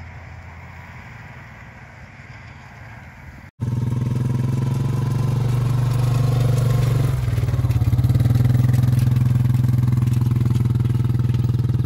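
Engine of the small vehicle towing a harrow over the riding arena, first running steadily at a distance, then, after a sudden cut about three and a half seconds in, running loud and close for the rest.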